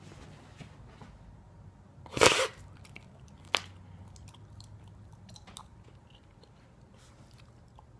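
A cockapoo puppy chewing and biting on something, with scattered small clicks, one loud crunch about two seconds in and a sharp click about a second later.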